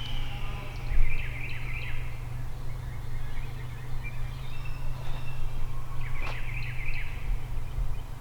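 Distant eastern wild turkey gobbler gobbling twice, two rattling calls each about a second long, about five seconds apart, over a steady low rumble.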